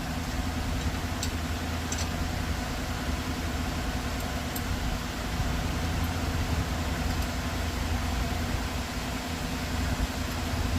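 Steady low mechanical hum of a running machine, with a few faint ticks about a second and two seconds in.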